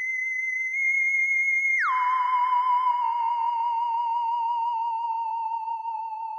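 Eerie theremin-style music tone: a single high held note that glides down about two seconds in, then wavers with vibrato as it slowly sinks and fades.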